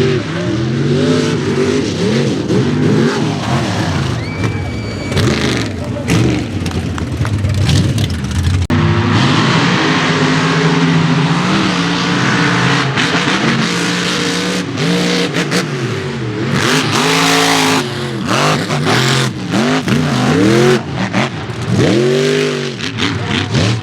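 Mega mud truck engines revving hard, their pitch climbing and dropping over and over, with an abrupt change in the sound about nine seconds in.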